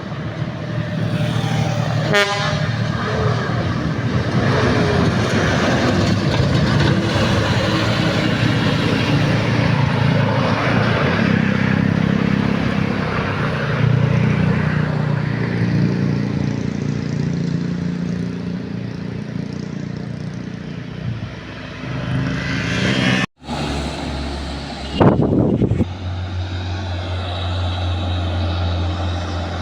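Old truck's engine running hard under load on a steep uphill climb. Near the end it breaks off suddenly and is followed by a steadier low engine hum.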